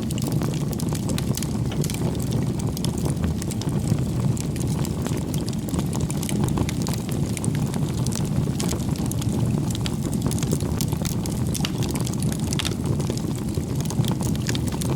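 Wood campfire burning: a steady low rumble of flames with frequent small crackles and pops from the burning firewood.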